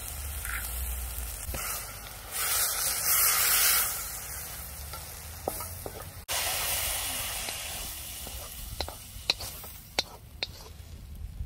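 Food sizzling and frying in oil in a wok while it is stirred, with a loud surge of sizzling about two to four seconds in. A few sharp metal clinks come near the end.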